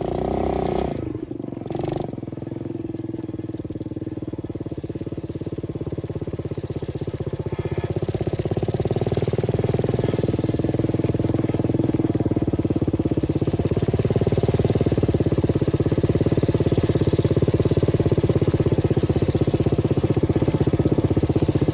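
125cc dirt bike engine running while riding, steady, getting louder about a third of the way in and holding there.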